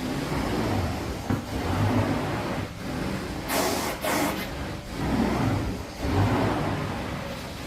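Carpet extraction machine running with a steady engine-like drone, its loudness rising and falling with each wand pass over urine-soaked carpet. A brief sharp hiss comes about halfway through.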